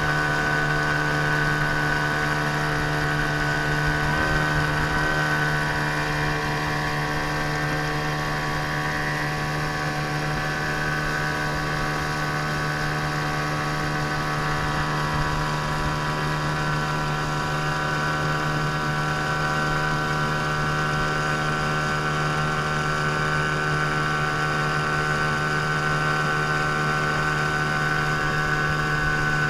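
15-horsepower outboard motor running at a steady speed, an even drone that holds its pitch throughout.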